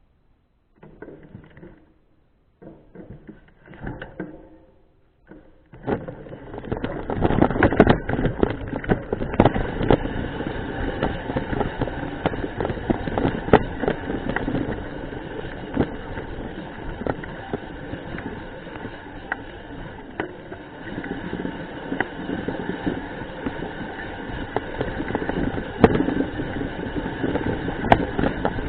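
Mountain bike riding over a rough dirt trail: a few short bursts of tyre and rattle noise, then, about six seconds in, continuous rolling noise with frequent sharp clicks and knocks from the frame and chain.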